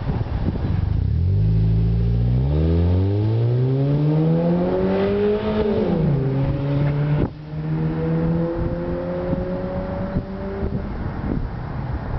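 Mazda3's 2.3-litre four-cylinder with a Mazdaspeed3 exhaust and cold-air intake, accelerating under load through the automatic's gears. Engine pitch climbs steadily for about five seconds, drops sharply at an upshift, then climbs again more slowly before easing off near the end.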